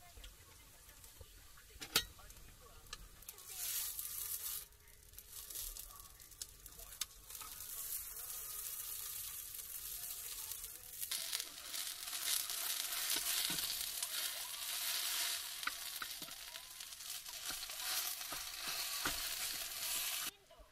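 A steady sizzling hiss with scattered crackles, as of food frying in a pan. It starts about three and a half seconds in, grows louder about halfway through, and cuts off suddenly just before the end. A single sharp click comes about two seconds in.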